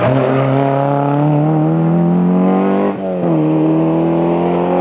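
Historic rally car's engine accelerating hard, its pitch climbing steadily, with a quick gear change about three seconds in, after which it climbs again.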